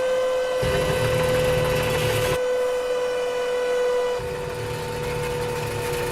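Cartoon sound effects of a giant robot's machinery: a steady electronic drone with two surges of mechanical rumble and hiss, one about half a second in and one about four seconds in.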